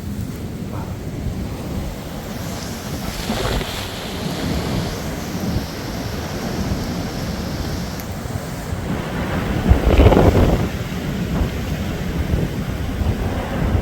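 Storm-force wind buffeting the microphone in heavy, wind-driven rain: a steady low rumble that swells in gusts, with the strongest gust about ten seconds in.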